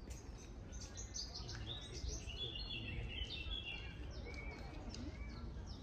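Small birds chirping and twittering in quick, high, overlapping notes, busiest in the middle, over a steady low outdoor rumble.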